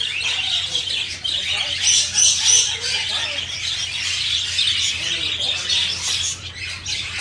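Many parrots and parakeets chattering and squawking together in a dense, continuous din of calls, with a few sharper high notes about two seconds in.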